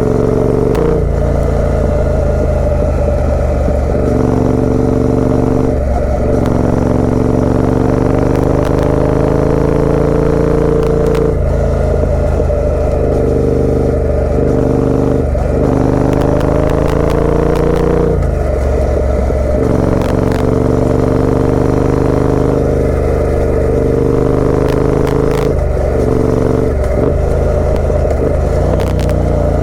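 Triumph Speed Twin 900's parallel-twin engine running through a British Customs aftermarket exhaust while riding. The engine note climbs steadily in pitch, then breaks and drops briefly before climbing again, several times over.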